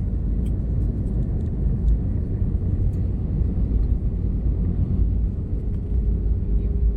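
Steady low rumble of a vehicle in motion, with a faint steady hum coming in about five seconds in.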